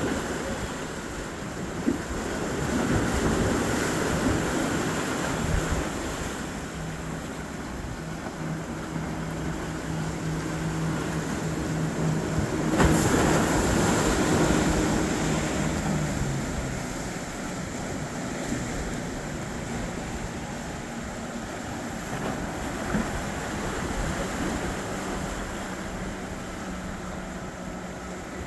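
Surf and wind noise with a steady low drone of a passing boat's engine that holds through the middle and drops away about two-thirds of the way through; the water and wind noise swells twice.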